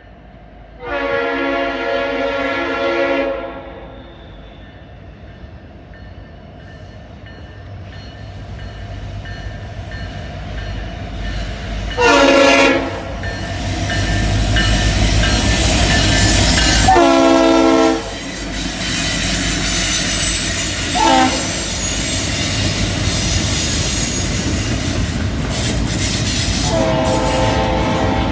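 Freight train's diesel locomotive horn sounding several blasts: a long one about a second in, shorter ones near the middle, a brief toot, and another long blast near the end. Underneath, the rumble of two diesel locomotives and a train of double-stack container cars grows as the train approaches and passes.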